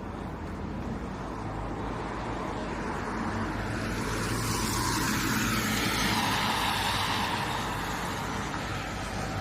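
A car passing by on the street, its tyre and engine noise swelling to a peak about six seconds in and then fading, over a steady low traffic rumble.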